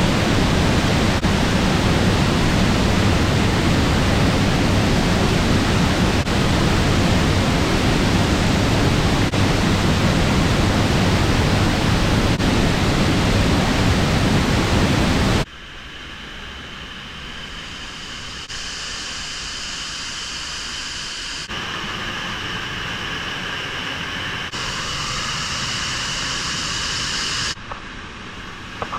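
Waterfall: a loud, steady rush of falling water, cutting off suddenly about halfway through to a much quieter hiss with faint steady high-pitched sounds that change at a few cuts.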